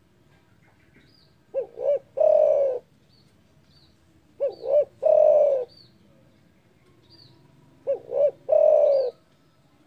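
Spotted dove (derkuku) cooing three times, about every three seconds; each call is two short coos followed by one long, drawn-out coo. Faint short high chirps of small birds come between the calls.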